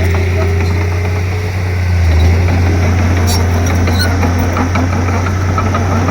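Komatsu D31P bulldozer's diesel engine running steadily under work, with a brief dip and swell in engine sound about two seconds in.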